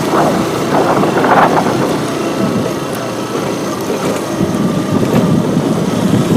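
Motorcycle engine running while the bike is ridden slowly over a rough road.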